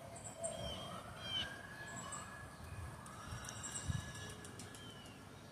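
Small birds chirping in short, falling calls, with a faint distant siren wailing up in pitch about a second in and then holding.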